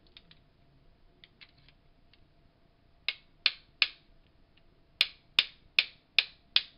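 A run of sharp, hard clicks: a few faint ones at first, three louder ones about three seconds in, then six evenly spaced clicks about two and a half a second near the end.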